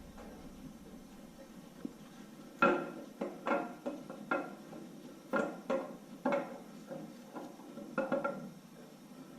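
Camshaft of a 6.0 L LQ4 V8 being worked out of the engine block by hand, its lobes and journals clinking and knocking against the cam bearings and block: about ten irregular metallic knocks from about two and a half seconds in until near the end.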